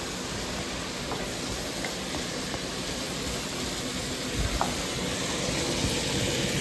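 Chopped onion sizzling as it fries in a pan: a steady hiss, with a few faint clicks.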